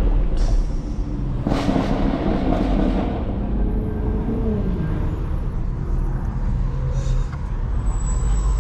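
BMW X3 M's S58 twin-turbo straight-six and road noise while driving: a steady low rumble with a couple of short loud rushes early on, and the engine note falling about four seconds in.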